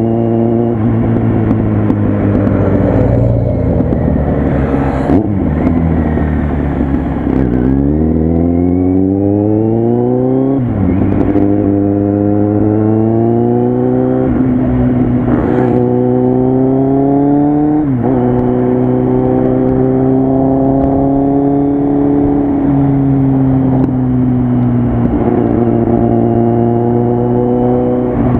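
Kawasaki Z800's inline-four engine running through a loud exhaust while riding. The revs sink for the first several seconds, then climb about eight seconds in, with three quick upshifts as it accelerates. It then holds a steady cruise for the last ten seconds.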